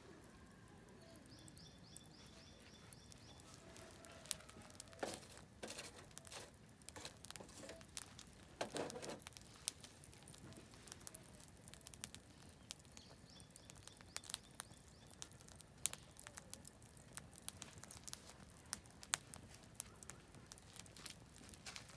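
Oak firewood burning in a campfire, crackling with scattered sharp pops and snaps. A bird sings a short high trill twice, near the start and again about two-thirds through.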